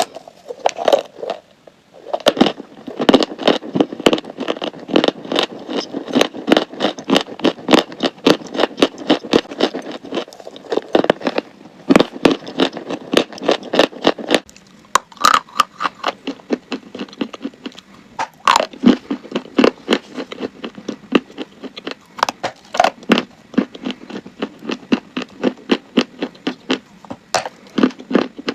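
Crunchy chalk being chewed close to the microphone: a fast run of dry crunches, several a second, with a brief pause about two seconds in.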